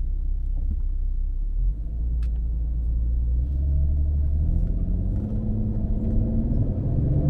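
Porsche Cayenne (958) V6 running through its factory sport exhaust in sport mode: a low steady rumble at first, then from about halfway in the exhaust note climbs steadily in pitch as the engine picks up revs.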